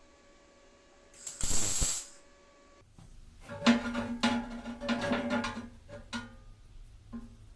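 A brief loud burst of hiss lasting about a second, then a run of irregular clicks and rattles over a low hum.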